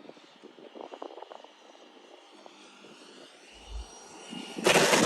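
Electric ducted fan of a radio-controlled Arrows F-86 jet flying, faint at first, then a loud rushing noise with a high fan whine as it passes close about four and a half seconds in.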